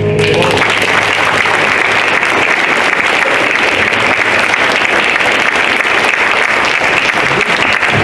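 Congregation applauding: steady, dense clapping that starts as the last note of the song dies away about half a second in, and keeps going.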